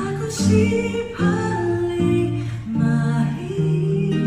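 A woman singing a slow song to her own acoustic guitar, in a bathroom's echoing acoustics.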